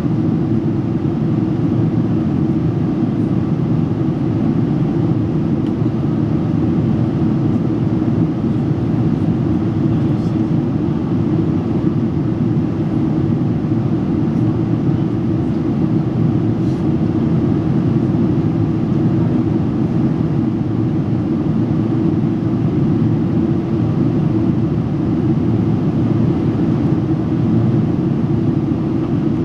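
Steady cabin noise inside a Boeing 777-300 airliner in flight: an even, unbroken rumble of engines and airflow.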